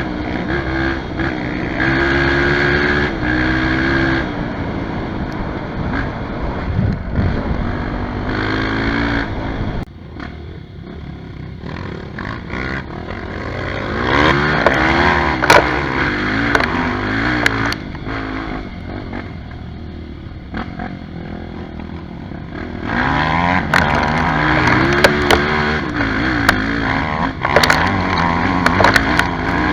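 Trail motorcycle engine under way off-road, revving up and dropping back as it changes gear, easing off about a third of the way in and opening up again near the end. Sharp clicks and knocks come through in the last few seconds.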